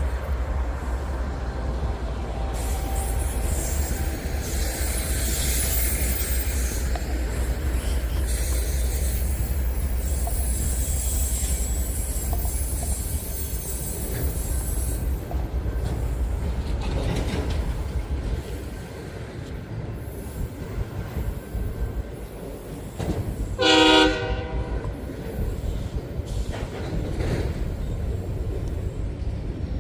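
Local freight train rumbling past as it rounds a curve, with high-pitched wheel squeal through the first half. About two-thirds of the way through, the locomotive sounds one short horn blast of about a second.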